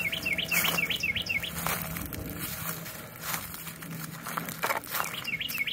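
A songbird singing a fast series of repeated slurred whistled notes, about five a second, at the start and again near the end.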